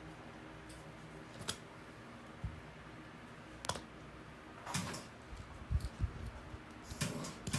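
Sparse light clicks and taps of small hand tools being handled during a wood floor repair, a few seconds apart, with a couple of dull low knocks a little after the middle.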